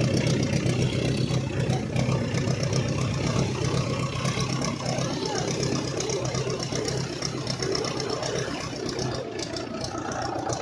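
Tractor diesel engine running steadily, its level easing off a little near the end.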